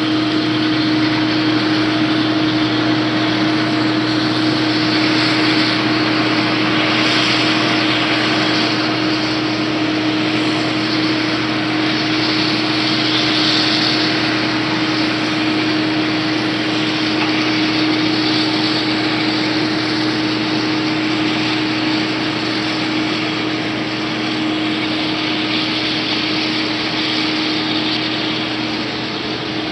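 Combine harvester running steadily: a constant engine drone with a steady hum and a broad machinery rush that does not change.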